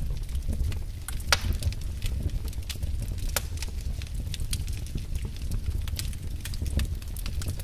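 Fire in a fireplace crackling, with irregular sharp pops, the strongest about a second and a half in, over a steady low rumble of flame.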